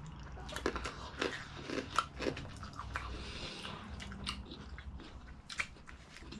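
Crunching and chewing of food, close to the microphone: a run of irregular crisp bites and chews.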